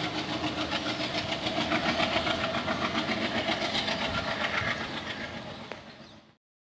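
Passing diesel-hauled passenger train's wheels clattering over rail joints in a quick, even rhythm, fading away and then cutting off suddenly near the end.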